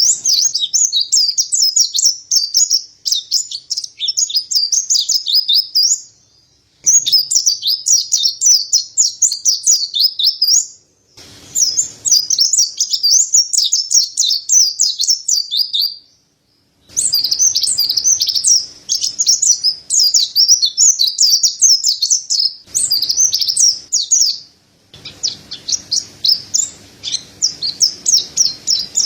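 Mountain white-eye (pleci dada putih) singing a fast, high twittering song of rapid chirps and trills, in several long bouts broken by brief pauses of about half a second to a second.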